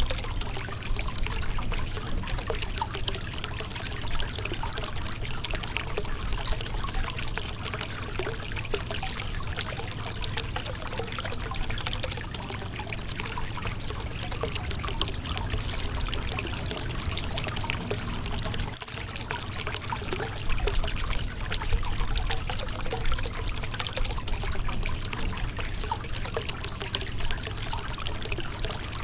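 Shallow river water running and splashing over rocks: a steady trickling and gurgling rush with many small splashes.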